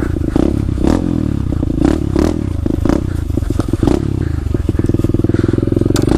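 SSR125 pit bike's single-cylinder engine running under throttle as it is ridden over rough ground, with many short knocks and clatter scattered through. Near the end the engine settles into a steady, even pulse.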